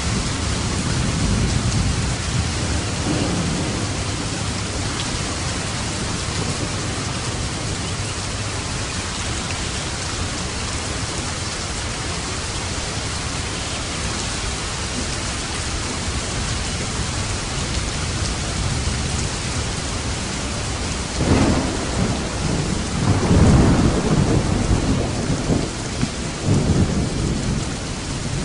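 Thunderstorm: steady heavy rain with low thunder rumbles. A louder thunder roll comes about three-quarters of the way through, with further rumbles after it.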